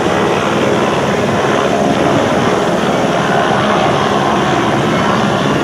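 Helicopter rotor and engine noise, a loud steady chopping whir close by as it comes in to land.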